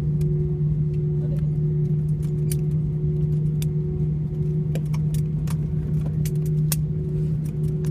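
Airliner cabin noise on the ground after landing: a steady engine hum with a low rumble, with scattered sharp clicks and small rattles from within the cabin.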